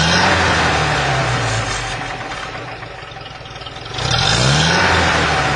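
UAZ-31512 engine revved through its new-pattern exhaust with muffler and resonator. The revs fall back toward idle over about three seconds, then the throttle is blipped again about four seconds in.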